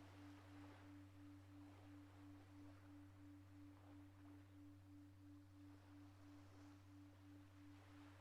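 Faint, lingering ring of a singing bowl, one steady tone that wavers about three times a second, over a low steady hum.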